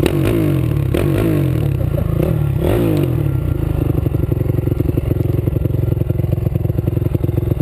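Dirt bike engine revving up and down several times, then running at a steady speed from about halfway through.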